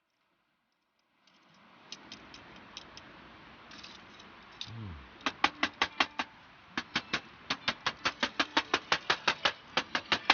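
A rapid series of sharp clicks, about three to four a second, starting about five seconds in, with a brief low falling tone just before.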